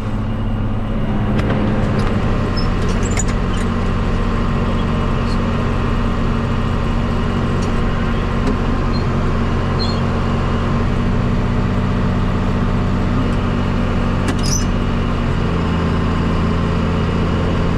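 Tractor engine running steadily under load, pulling a Kuhn round baler through the windrows, with the baler's machinery running behind it. The engine note shifts slightly about fifteen seconds in.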